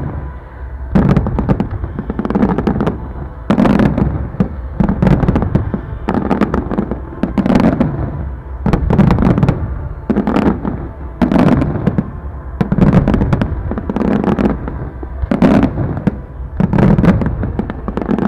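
Aerial fireworks shells bursting in a continuous barrage, with a sharp bang about once a second over a low rumble.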